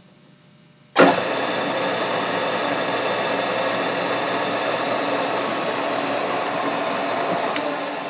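Grizzly G4003G gearhead metal lathe switched on: its motor and headstock gears start suddenly about a second in and run steadily, with several steady tones over the machine noise, beginning to fade at the very end.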